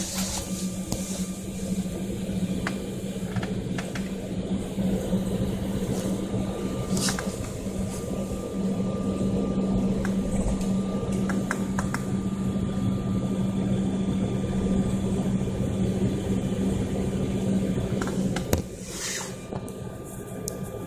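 Steady rumble and drone inside an aircraft cabin, with a constant low hum and a few light clicks. About 18 seconds in there is a thump, and then the hum stops and the noise drops.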